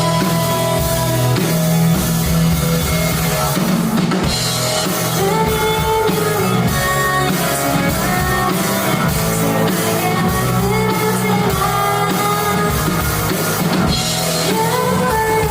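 Live rock band playing, with a full drum kit, electric guitar and bass driving a steady beat.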